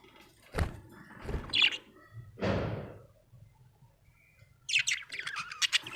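Budgerigar chirping: a couple of knocks and a short chirp early on, then from near the end a rapid, dense run of high chattering chirps.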